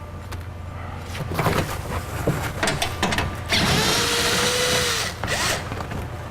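Power drill with a 10 mm socket spinning out one of the regulator's mounting bolts from the door metal, a steady whir lasting about a second and a half from midway, among clicks and knocks of the tool and loosened hardware.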